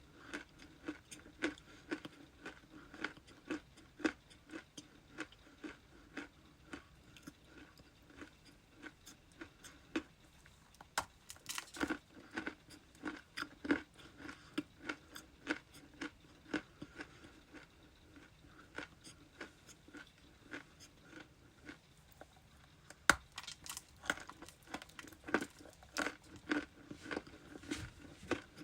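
Close-up chewing of ice: a steady run of crisp crunches, several a second, with louder bouts of biting around the middle and near the end.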